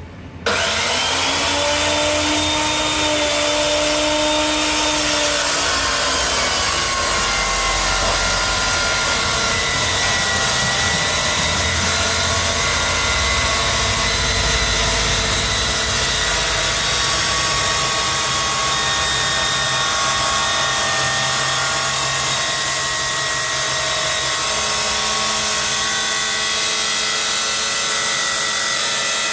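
A power tool starts abruptly and runs continuously on the steel propeller shaft of a heavy truck: a loud, harsh hiss with a whine that rises as it spins up and shifts in pitch a few seconds later.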